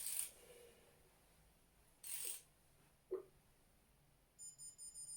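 Hand-tool noises from tightening a connecting-rod big-end bolt: a couple of short scrapes and one sharp click. From about four seconds in comes a rapid, pulsing high-pitched electronic beeping, a digital torque wrench signalling that the bolt has reached its set 61 newton metres.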